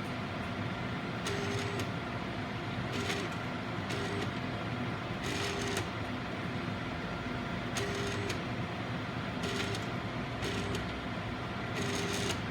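Agilent 7693A autosampler sample tray running over a steady instrument hum, its motors moving in short whirring bursts with brief tones, one every one to two seconds. These are the strange sounds that mark the tray as behaving oddly.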